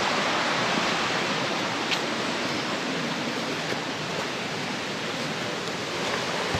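Steady rush of water in the rainforest, an even hiss that eases slightly over the seconds.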